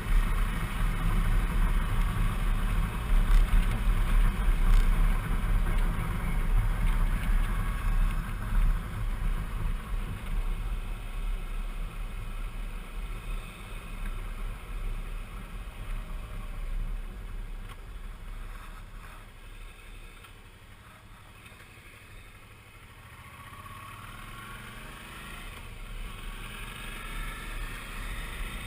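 Suzuki V-Strom 650's V-twin engine running under way with a heavy low rush of wind. It eases off and gets quieter toward the middle, then rises steadily in pitch as the bike accelerates near the end.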